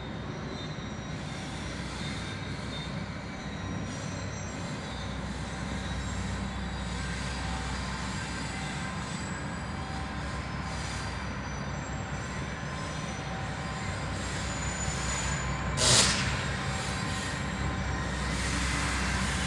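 GE C40-8W diesel-electric locomotive with its V16 engine running as it rolls downhill at the head of a long, heavily loaded ore and container train: a steady low rumble with thin high wheel-squeal tones over it. A short, loud burst of noise stands out about three-quarters of the way through.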